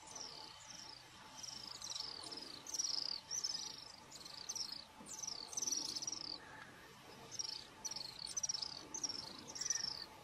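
Bird calls: clusters of quick, high chirps, each falling in pitch, repeated over and over above a faint steady hiss.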